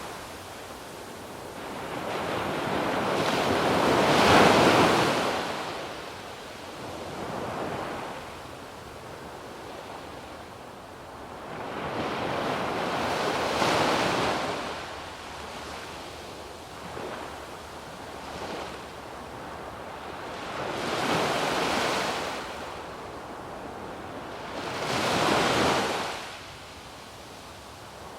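Surf breaking on a sandy beach: waves wash in as swells of hiss every several seconds, four times here, the first the loudest, over a steady background of surf.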